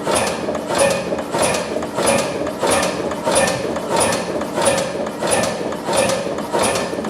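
Old slow-running stationary engine ticking over, with a regular mechanical clack about every two-thirds of a second.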